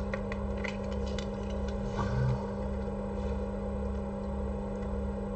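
Steady low electrical hum with an evenly pulsing low throb, and a few light clicks in the first second or so.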